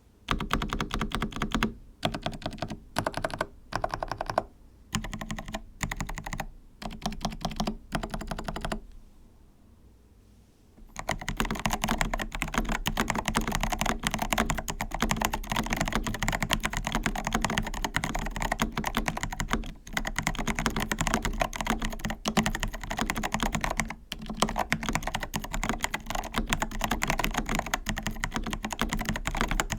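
Typing on a mechanical keyboard with Kailh Pixel T switches (Melgeek Pixel), a rapid run of key clicks. Short bursts of keystrokes at first, a pause of about two seconds near the middle, then steady continuous fast typing.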